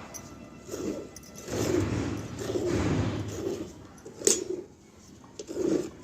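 A cow being milked by hand: milk squirting into a pail in rhythmic spurts, about one spurt every second or less, with a longer hissing stretch near the middle and a single sharp click a little past the middle.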